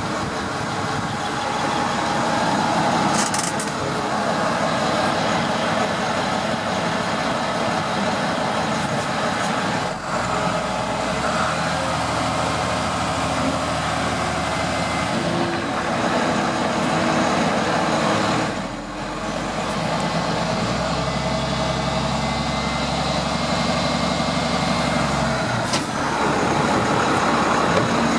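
International DT466 7.6-litre inline-six diesel idling steadily, its low tone shifting a few times.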